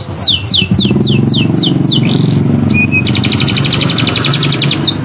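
Domestic canary singing: a run of quick whistled notes that each sweep downward, then from about three seconds in a fast, sharp roll. A low hum runs underneath.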